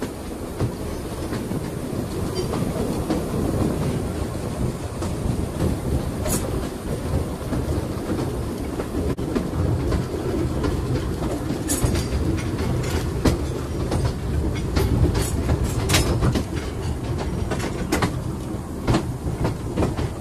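Narrow-gauge train running slowly, heard from beside the locomotive: a steady rumble of wheels on the track, with irregular sharp clicks and clanks as the wheels cross rail joints and pointwork, more frequent in the second half.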